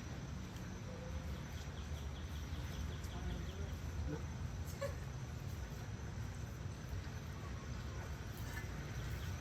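Outdoor ambience: an insect trilling in short runs of rapid high ticks over a steady low rumble, with one light click about five seconds in.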